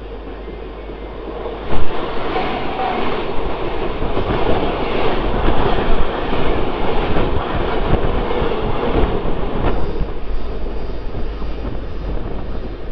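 Mumbai suburban local (EMU) train running, heard at an open doorway, with wheel clatter on the rails. About two seconds in, another local train passing close on the next track brings a sudden loud rush of noise that lasts until about ten seconds in, then fades back to the steady running sound.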